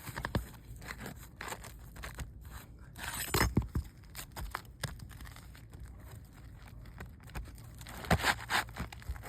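Asphalt roofing shingles being handled and worked into place, scraping and crinkling, with scattered sharp knocks that come in louder clusters about three seconds in and near the end.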